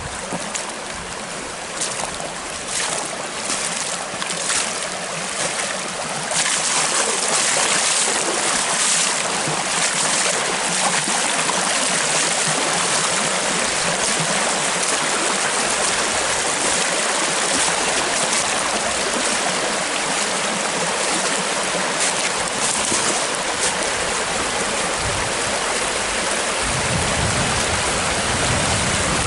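Storm runoff rushing steadily over a rock-lined dam spillway, getting louder about six seconds in.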